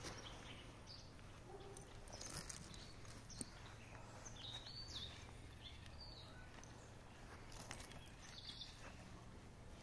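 Faint outdoor ambience with a low steady hum, and a few short, high bird chirps, a cluster about halfway through and another near the end.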